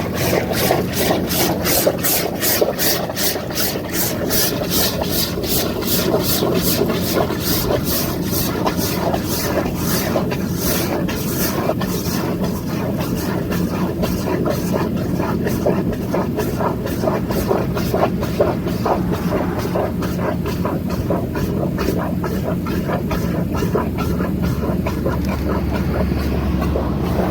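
Horizontal directional drill rig running at the start of a pullback, with water pumped through the drill pipe to soften the soil: a hiss of water over a steady engine hum. A rapid high ticking, about four a second, fades out after about twelve seconds.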